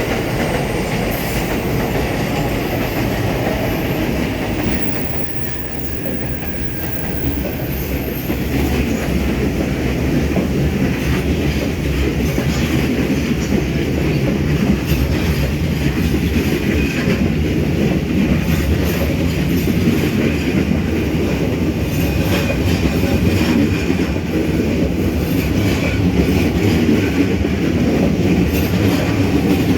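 Retired E217 series train cars hauled by an EF64 electric locomotive rolling past on departure, wheels rumbling and clicking over the rail joints, getting louder after the first few seconds.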